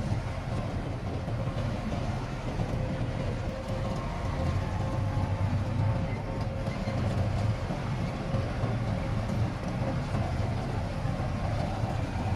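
Heavy diesel construction machinery running steadily, a low rumble with a faint steady whine above it.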